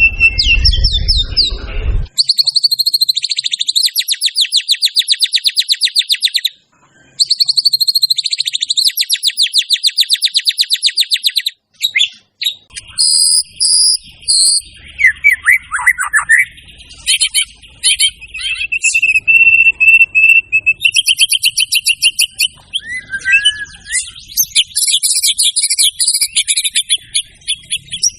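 White-rumped shama singing: two long, rapid trills over the first dozen seconds, then a string of varied, changing phrases. A low rumble sits under the song for the first couple of seconds.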